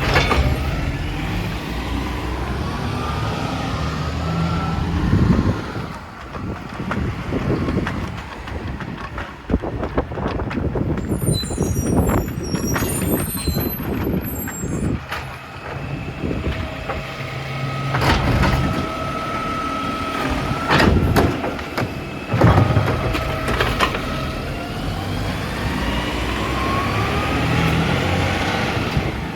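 Side-loading recycling truck with a New Way Sidewinder automated arm at work: the diesel engine runs and revs, and a hydraulic whine rises in pitch twice. Clatters and knocks come through the middle, along with air-brake hisses.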